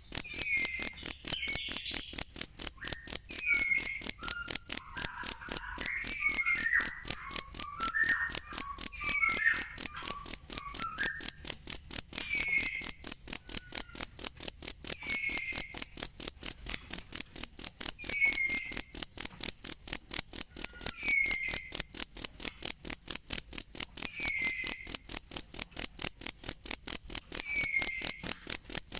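Cricket chirping: a high-pitched, very regular pulsed call, about three chirps a second, going on without a break.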